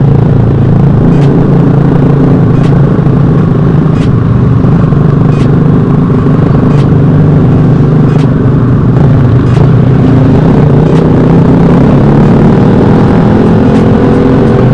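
Motorcycle engine and exhaust running steadily while riding, a loud low drone without big revs. Faint regular ticks come about every second and a half.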